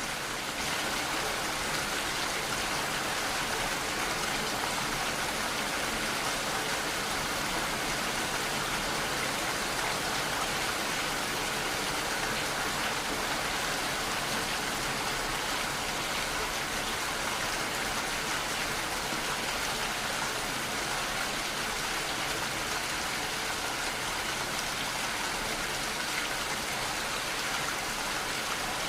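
Steady rainfall, an even hiss of raindrops with no breaks or thunder.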